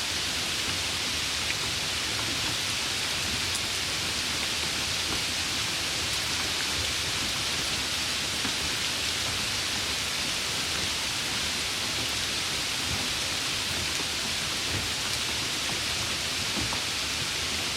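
Steady summer rain falling, an even, unbroken hiss with no separate drops or changes.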